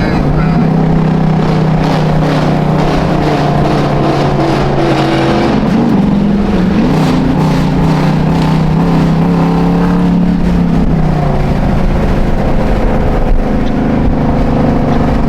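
Car engine rumbling steadily at low speed, its pitch dipping and rising again about six seconds in and shifting once more later on.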